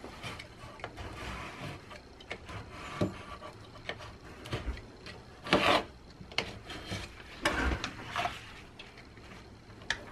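Irregular scraping and rubbing against wood, in short uneven strokes, with a few louder scrapes about halfway through and again later.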